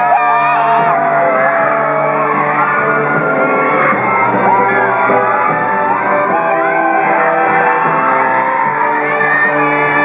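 Music in a large, echoing hall, with many high voices shouting and whooping over it: an audience cheering and screaming.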